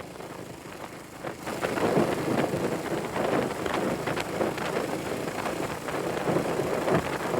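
Wind buffeting the microphone on a moving classic motorcycle, a rough, gusty rush that grows louder about a second and a half in.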